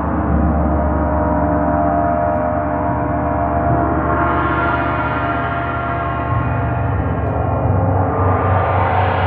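Gong played in a continuous shimmering wash, its many overtones sustained and swelling brighter about four seconds in and again near the end.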